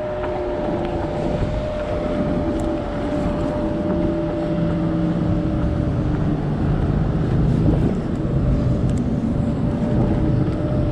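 Kaabo Wolf GT Pro electric scooter being ridden at a steady speed: a steady motor whine over rushing wind and road noise.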